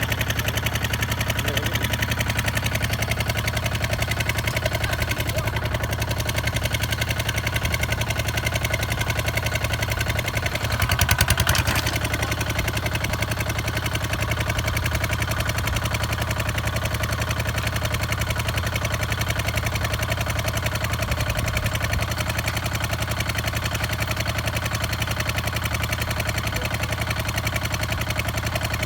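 Kubota ZT 155 DI single-cylinder diesel engine running steadily with an even, fast firing beat, swelling briefly louder about eleven seconds in.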